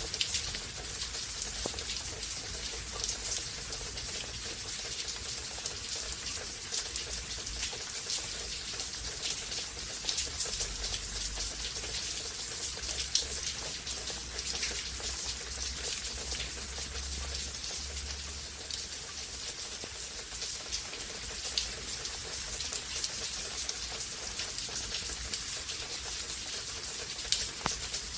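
Steady heavy rain during a rain storm: an even hiss of rainfall dotted with many fine ticks of individual drops, with a low rumble underneath for several seconds in the middle.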